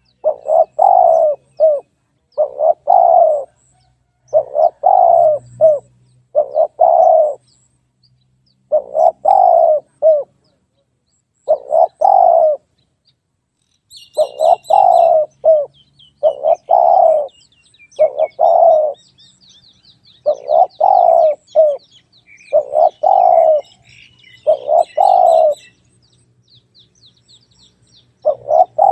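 Spotted dove calling over and over, a phrase of a few soft coos about once every two seconds. Faint high chirping of small birds comes in behind it around the middle.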